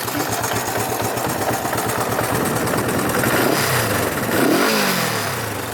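1967 Honda CB450 'Black Bomber' DOHC parallel-twin engine running, with its exhaust note. Past halfway the throttle is blipped twice, the revs rising and falling back toward idle each time; the second blip is the louder.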